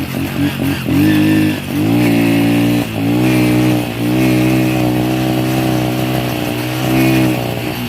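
Small petrol engine running and revving, rising and falling in pitch in stretches of a second or two with brief dips between them.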